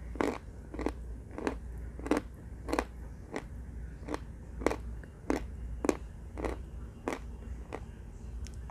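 Person chewing hard, dry baked red clay close to the microphone. Each chew gives a crisp crunch, in a steady rhythm of a little under two crunches a second.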